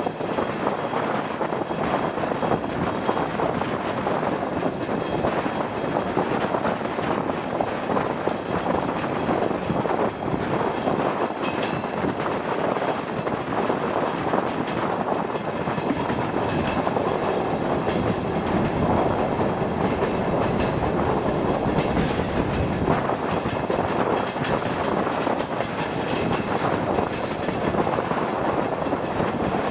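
DR1A diesel railcar train running along the track: a steady rumble of engine and wheels on the rails.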